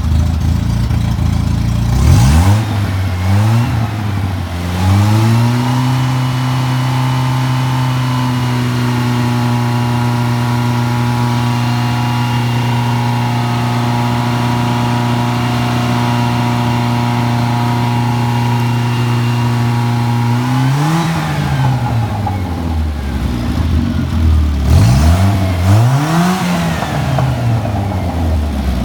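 Morris Marina 1.3 A-Series four-cylinder engine, fully warmed up, being revved. A couple of quick blips lead into a steady higher speed held for about fifteen seconds, which drops back and gives way to several more blips up and down near the end.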